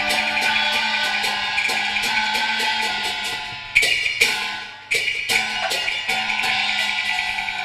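Instrumental passage of Cantonese opera accompaniment: melodic instruments hold a tune over quick, clacking percussion strikes, with two louder crashes about four and five seconds in.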